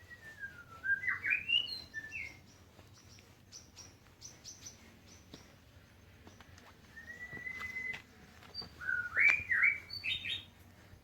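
White-rumped shama singing: two phrases, each a drawn-out gliding whistle followed by quick rising whistled notes. Short high chips fill the gap between the phrases.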